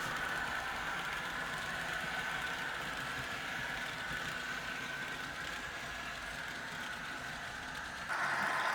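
Model train running on the layout: the steady whine of the locomotive's motor and the wheels rolling on the rails. It gets suddenly louder near the end.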